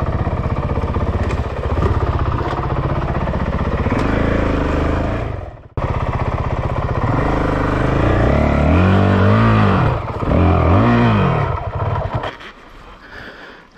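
Honda CRF450L's 450 cc single-cylinder engine running at low speed as the dirt bike is ridden over rough ground. It is revved up and back down twice in the second half, and then the engine sound falls away about twelve seconds in.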